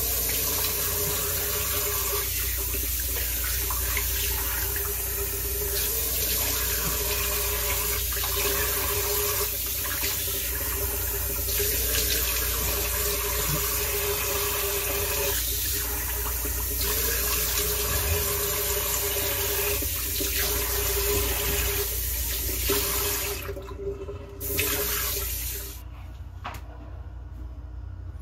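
Water running steadily from a tap into a sink. Near the end the flow drops away, comes back for a second, then stops.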